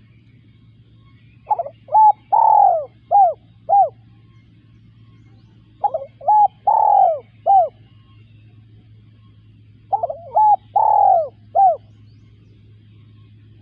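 Spotted dove cooing: three phrases of about five notes each, roughly four seconds apart, over a faint steady low hum.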